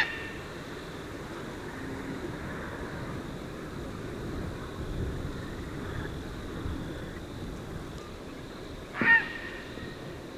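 Tricolored heron calling: the end of one short harsh squawk right at the start, then another brief squawk about nine seconds in, over a steady background hiss.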